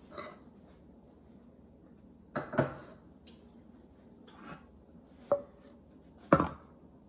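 Kitchen utensils and dishes clattering during muffin baking: about six separate knocks and clinks, the loudest about two and a half seconds in and near the end.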